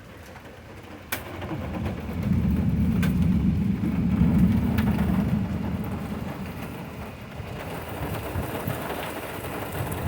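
Thunder from a nearby lightning strike during a severe thunderstorm: a sharp crack about a second in, then a low rolling rumble that builds and fades over several seconds. Rain falls throughout.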